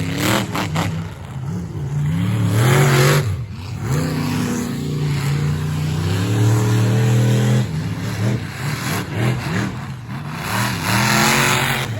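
Monster truck engines revving hard through a side-by-side race. The pitch climbs and falls again several times as the trucks accelerate and let off.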